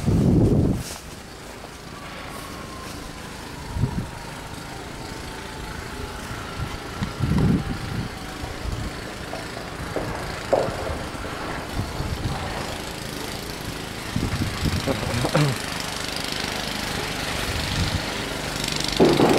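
An engine running steadily, with a few scattered short thumps.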